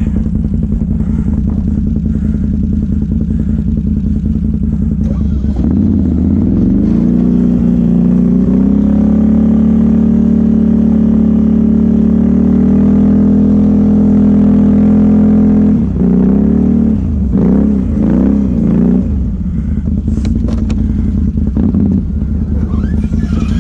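Can-Am ATV engine running: the revs climb about six seconds in and hold high and steady for several seconds, then drop and rise again several times in quick succession before settling lower.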